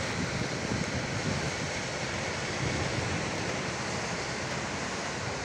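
Heavy rain falling steadily, a dense even hiss, with uneven low gusts of wind on the microphone.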